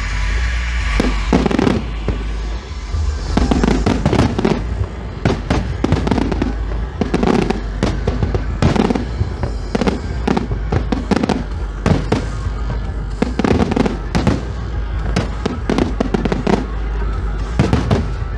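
Fireworks display: aerial shells launching and bursting in quick, irregular succession, a dense run of sharp bangs over a steady low rumble.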